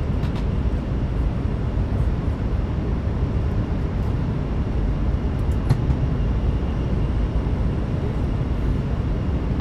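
Steady low rumble of an N700S Shinkansen train running, heard inside the passenger cabin, with a faint tick about five and a half seconds in.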